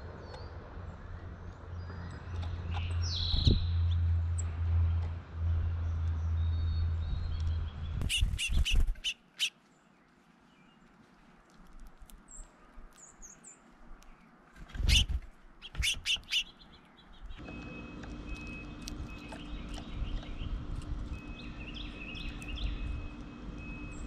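Small songbirds chirping in short high calls, over a low rumble for the first third. Loud sharp clicks come in two clusters, about eight and fifteen seconds in.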